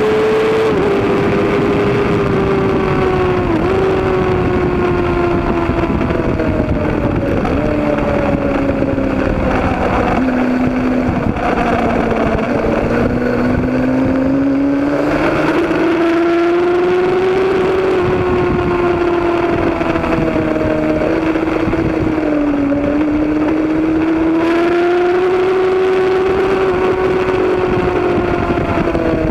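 Road-racing motorcycle engine running hard at high revs, its note rising and falling with the throttle, with a few quick drops in pitch at gear changes.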